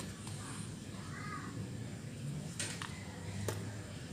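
Quiet outdoor background with one faint bird call about a second in, and two sharp clicks later on. The drill is not running.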